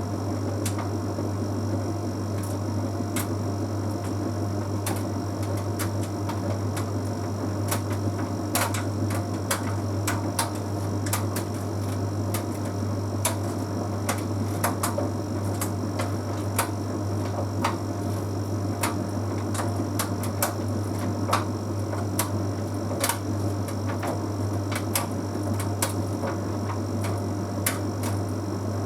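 Bosch Series 6 heat pump tumble dryer running with a steady low hum and many irregular light clicks and taps as the load tumbles in the turning drum.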